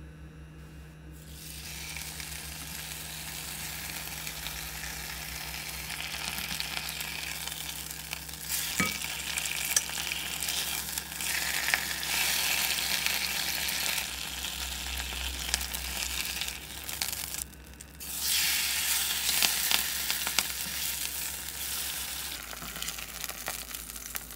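Napa cabbage leaves for baechu-jeon (Korean cabbage pancake) sizzling as they fry in oil in a frying pan, with small pops. The sizzle builds up about a second and a half in, drops out briefly a little past the middle, then comes back louder.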